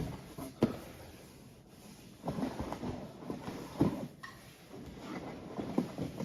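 Beer cans being handled and set down while someone rummages through a cardboard shipping box: a sharp knock about half a second in, then a run of irregular knocks and rustling with a louder knock near the middle, and more small knocks near the end.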